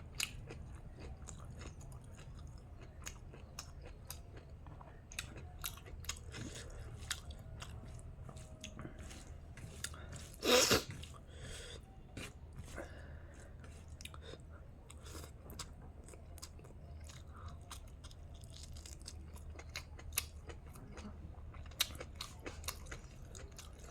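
Close-up chewing and eating of chicken biryani with pickle: irregular wet mouth clicks and crunches, with one louder burst of sound about ten and a half seconds in, over a faint low hum.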